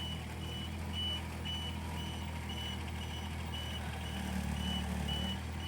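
A work vehicle's reversing or travel alarm beeping steadily, about two beeps a second, over its engine running at a steady idle.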